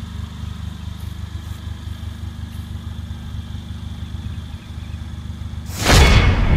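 A 2014 Mercedes-AMG CLA45's turbocharged four-cylinder engine idling with a steady low pulsing rumble. Near the end a sudden loud boom breaks in over it.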